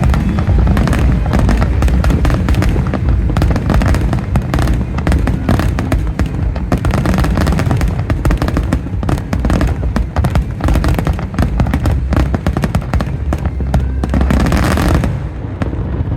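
Fireworks bursting in a dense barrage: rapid crackling bangs over deep booms, dropping off sharply near the end.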